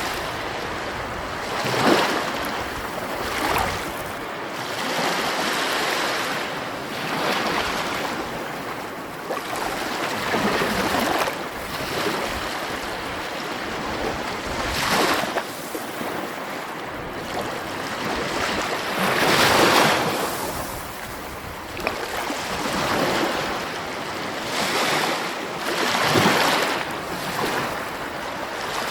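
Sea waves breaking and washing onto a shore, a steady rush of surf that swells every few seconds, with a few louder breakers.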